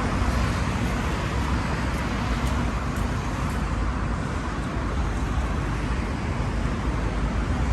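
Steady outdoor background noise: a continuous low rumble with a hiss above it and no distinct events, the kind of sound road traffic makes.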